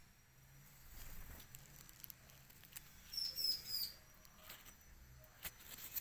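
Bar-winged prinia (ciblek) giving a quick run of high chirps about three seconds in, with a few faint clicks scattered around it.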